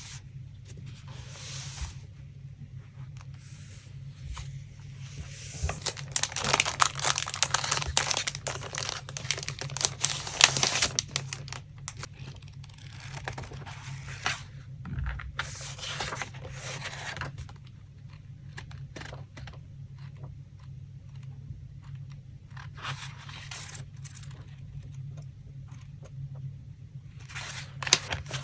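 Paper being handled and torn by hand for a collage, rustling and tearing in irregular bursts. The bursts are loudest and busiest about six to eleven seconds in. A faint steady low hum runs underneath.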